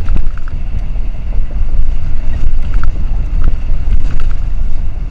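Steady low rumble of road and engine noise inside a motorhome cabin while driving on the highway, with a few faint clicks of rattles now and then.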